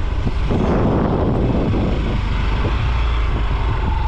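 Motorbike ride: the engine runs steadily under heavy wind rumble on the microphone, and a steady whine joins near the end.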